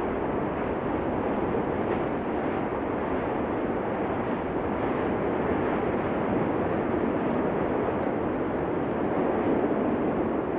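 Cumbre Vieja volcano erupting: a steady, even roar with no breaks or distinct blasts.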